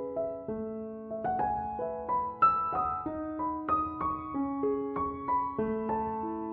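Background music: a gentle piano melody, separate notes struck one after another, several a second.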